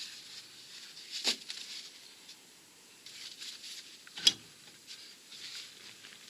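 Light scraping and clattering of hand tools and metal brake parts being handled while the caliper support and caliper are bolted back on, with two sharp clicks, the louder one about four seconds in.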